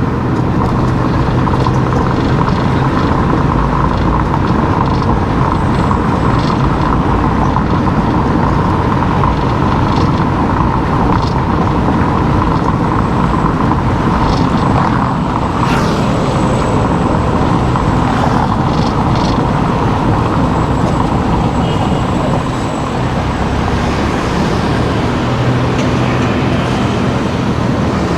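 A car driving, its engine and tyre noise running steadily with no change in pace.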